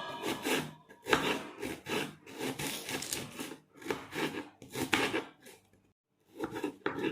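Rough rubbing strokes, repeated unevenly, with a short pause about six seconds in before a few more.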